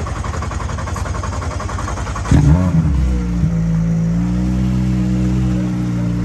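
Car engine running hard. About two seconds in the note changes abruptly and settles into a steady held pitch.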